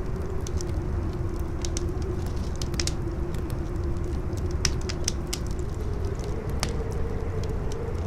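Campfire crackling with scattered sharp pops, over steady howling wind with a low rumble and a whistling tone that wavers and rises slightly near the end.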